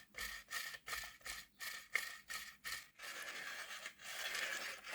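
Hornby OO gauge A4 model locomotive running slowly on track, making a rhythmic scratchy scraping about three times a second, which turns into a steadier rasping about three seconds in.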